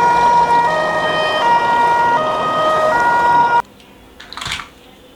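Electronic toy siren sounding a hi-lo two-tone wail, switching pitch about every 0.7 s, then cutting off abruptly a little past the middle.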